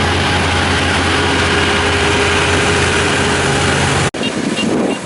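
Combine harvester's diesel engine running steadily at a constant pitch. It cuts off abruptly about four seconds in, giving way to wind noise on the microphone with short, faint high pips.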